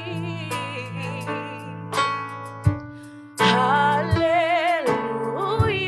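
Live gospel worship music: a band plays sustained chords and bass while singers hold long notes with vibrato between lines of the song. The music briefly thins about halfway through, then swells again with the voices.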